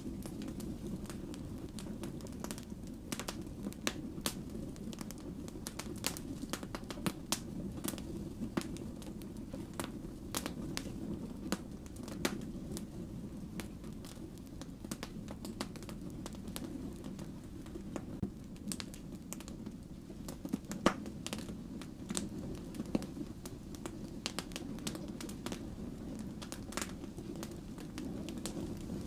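Firewood burning, with a steady low rumble of the flames and frequent irregular crackles and pops, one louder pop about two-thirds of the way through.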